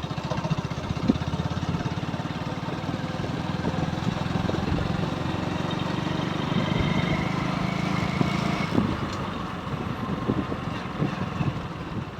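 Motorcycle engine running as the bike is ridden along, under steady road and wind noise; the engine note grows stronger for a few seconds past the middle.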